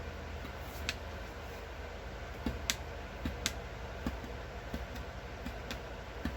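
A fine-pointed paper piercer poking stitch holes one at a time: sharp, irregular clicks about a second apart, a couple in quick pairs.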